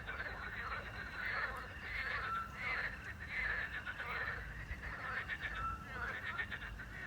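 Chorus of frogs croaking in dense, rapid trills, with an owl's short whistled note twice, about three seconds apart.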